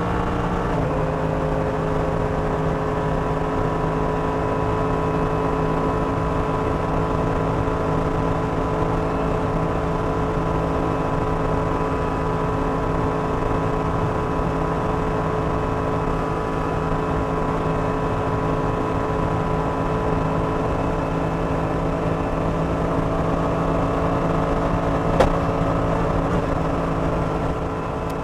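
Mercedes-AMG GT3's 6.2-litre naturally aspirated V8 running flat out at a steady, almost unchanging pitch, heard from inside the race car's cockpit. The pitch dips slightly about a second in, and a single sharp click sounds near the end.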